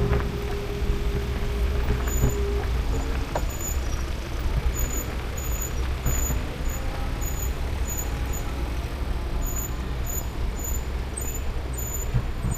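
Riding an e-bike: steady wind and road rumble on the camera, with a low hum in the first couple of seconds. Over it a faint, high squeak repeats evenly about twice a second from a squeaky bicycle brake.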